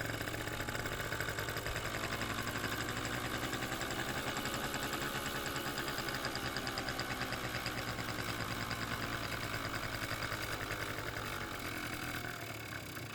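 Kymco Super Fever ZX 50cc two-stroke scooter engine idling steadily, on a carburetor whose air-fuel screw is being set, after stalling.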